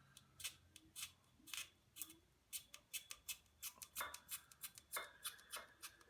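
Repeated sharp snips of a hand cutting tool trimming pieces of the roof rack kit, slow at first and then quicker, about four a second, from midway on.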